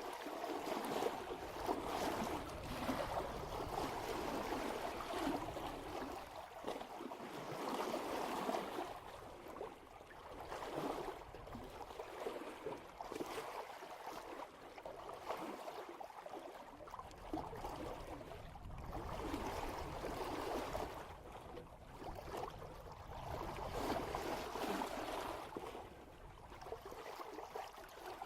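Water rushing and splashing along the bow of a sailboat moving at about 3 knots, swelling and easing every few seconds as the hull meets the waves.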